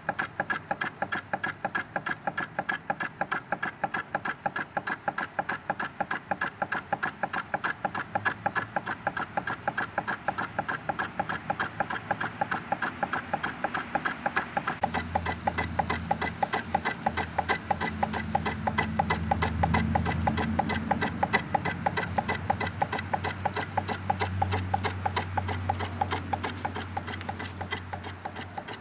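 1903 W. H. Smith Co. Essex hot air engine running, its mechanism clacking in a steady rhythm of about three or four beats a second. A low hum joins about halfway through, swells, and fades near the end.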